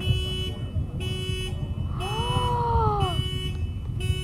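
Car alarm sounding a tone that switches on and off about once a second, over a loud low rumble from the Falcon Heavy rocket climbing after launch. About two seconds in, a single howl-like call rises and then falls for about a second.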